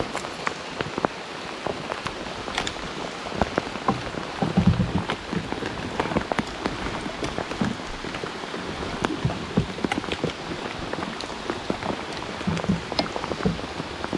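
Heavy rain pouring down, a steady hiss dotted with many small drop ticks. A few dull thumps stand out, the loudest about four to five seconds in.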